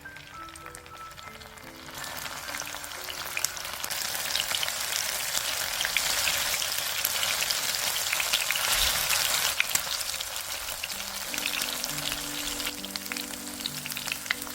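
Tofu menbosha frying in hot oil: a loud, steady sizzle with dense crackling that starts suddenly about two seconds in and eases a little near the end.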